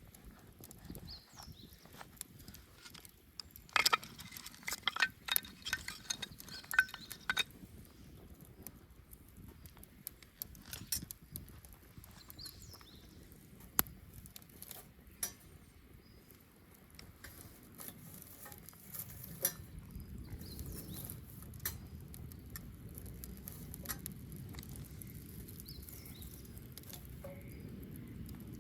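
Wood bonfire crackling and popping, with a dense run of loud crackles about four seconds in. A low steady rush builds in the second half.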